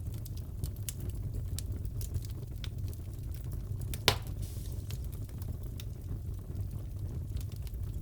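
Fireplace crackling: a steady low rumble with scattered small pops and snaps, and one sharp, louder crack about four seconds in.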